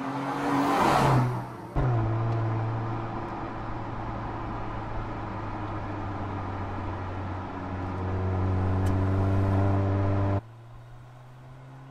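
Mercedes-AMG GLC 43's 3.0-litre V6 biturbo engine on the move. In the first two seconds the car sweeps past with a rush of noise and a falling engine note. Then it holds a steady engine note, which grows louder about eight seconds in and drops sharply about ten seconds in.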